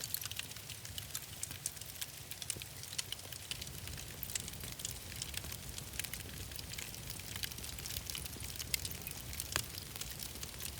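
Wood fire crackling, with frequent sharp pops and snaps over a steady hiss and low rumble.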